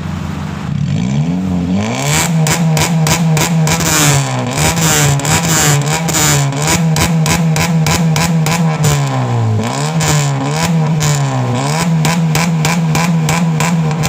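Honda Civic's HKS aftermarket exhaust, the engine idling for about a second and then revved in repeated blips, rising and falling in pitch. The note is a deep bass mixed with a raspy 'preng' edge.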